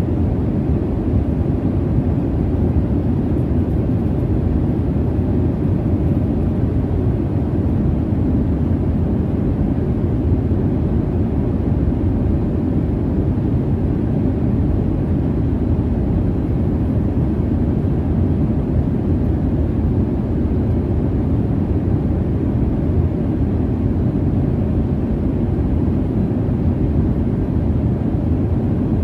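Airliner cabin noise in flight: a steady low rumble and hiss of the jet engines and airflow, with no changes.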